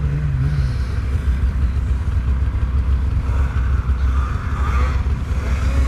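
Snowmobile engine running with a steady low rumble. A second engine's wavering pitch fades out about a second in.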